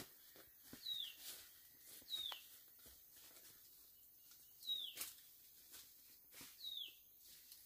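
A small bird calling four times in short, high chirps that each slide downward, unevenly spaced, with faint scattered taps and clicks between them.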